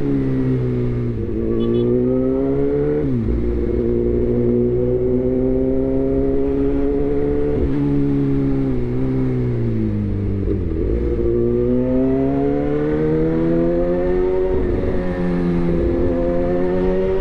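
Suzuki GSX-R1000's inline-four engine through a replica SC-Project exhaust, running under way with its pitch rising and falling on the throttle. The pitch drops sharply a couple of times, about three and eight seconds in, as it shifts gear.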